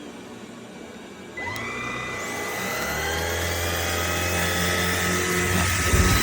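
Roborock H60 Ultra cordless stick vacuum's motor running. About a second and a half in it steps up to a louder setting with a rising whine as the motor spins up, then settles into a steady high whine over a low hum.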